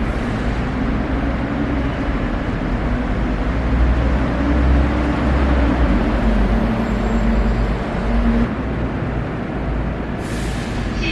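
Bus driving fast past the platform of an underground bus concourse, its engine hum and tyre rumble swelling and then falling away about eight seconds in. A short hiss follows near the end.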